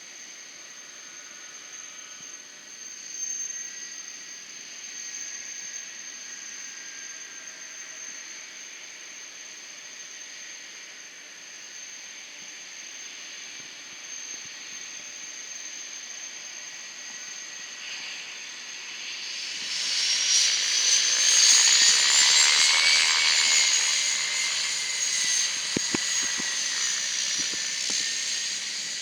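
Jet aircraft engines with a steady high whine, swelling about two-thirds of the way in to a loud rushing roar with a high whine that rises and wavers before easing off.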